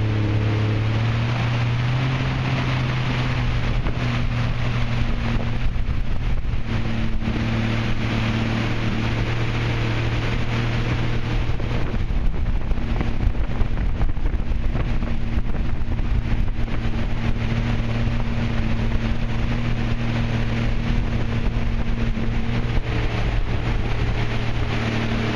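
Sea-Doo jet ski engine running steadily at speed, its drone holding an even pitch, over a constant rush of water and wind noise on the microphone.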